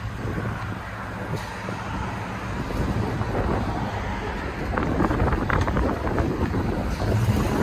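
1995 Chevy 1500's 5.7-litre V8 running through a Flowmaster Super 44 dual exhaust, heard from inside the cab while driving: a steady low exhaust drone that gets louder near the end.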